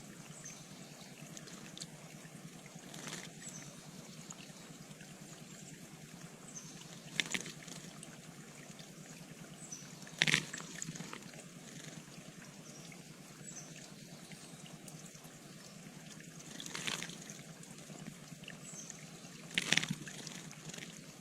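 A bird bathing in water, splashing in five short bursts, the loudest about ten seconds in and near the end, over a steady hiss of trickling water.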